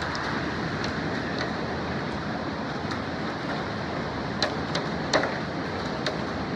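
Hailstorm coming down hard: a steady rush of hail and rain, with sharp cracks of individual hailstones striking hard surfaces scattered throughout, the loudest strikes a little past the middle.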